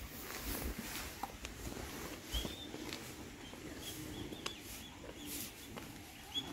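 A small bird chirping a few times, short high calls at irregular intervals, over faint background noise with a few soft knocks.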